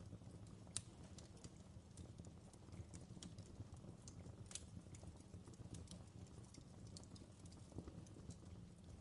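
Quiet background ambience: a low steady rumble with faint, irregular clicks and crackles scattered through it.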